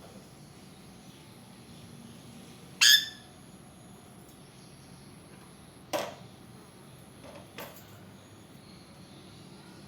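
A lory gives one short, harsh screech about three seconds in, the loudest thing here, followed by two sharp clicks a few seconds later.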